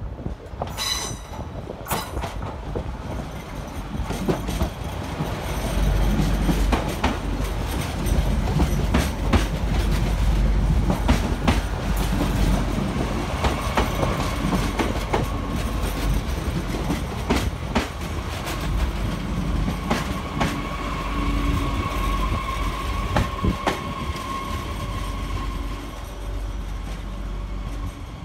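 Double-deck passenger train running past the platform: a low rumble builds from about five seconds in, with wheels clicking over rail joints and points. Wheels squeal briefly about a second in, and a steady high wheel squeal runs from about halfway through until a few seconds before the end.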